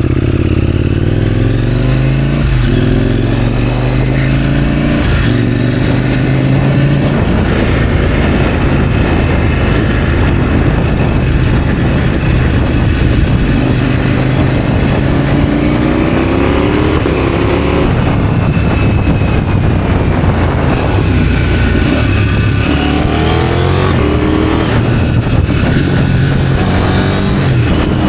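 KTM 790 Duke's parallel-twin engine through an IXRACE aftermarket exhaust, accelerating in several rising sweeps of pitch that break off and start again lower as it shifts up, easing off in between.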